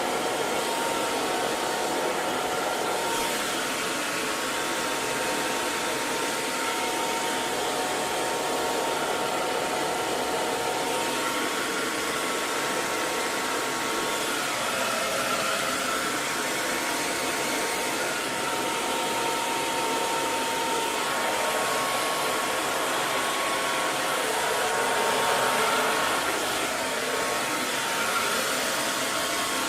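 Hair dryer running steadily: a continuous blowing hiss with a faint steady whine in it, used as white noise.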